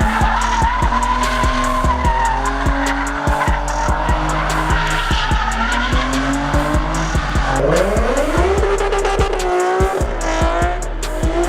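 Music with a quick steady beat, mixed with a car engine revving and tyres squealing; the engine pitch climbs steeply about eight seconds in.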